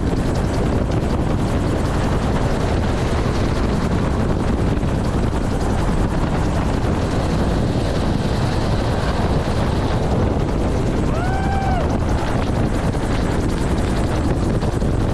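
Helicopter running with a steady, loud rotor and engine noise. About eleven seconds in, a short tone rises and falls in pitch.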